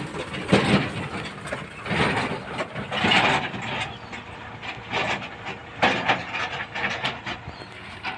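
Backhoe loader at work: an engine running under irregular clattering, scraping bursts about once a second, like earth and stones being dug and dumped.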